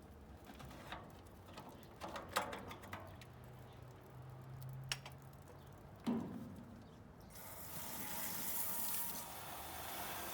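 Scattered clicks and knocks of hands working on metal parts, with a thump about six seconds in. Then water from a garden hose starts running with a steady hiss while the radiator is flushed of rusty water.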